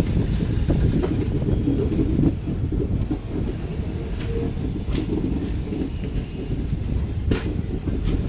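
Passenger train coach running on the rails: a steady, heavy rumble of wheels on track, with a couple of sharp clicks about halfway through and near the end.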